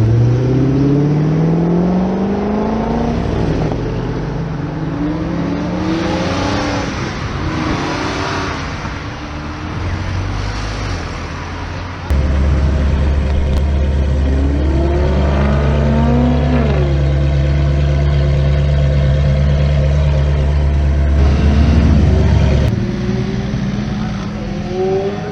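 High-performance car engines revving and accelerating, their pitch climbing steeply at first. About halfway through the sound changes abruptly to a steady low drone, with another car's engine note rising and then falling as it goes past.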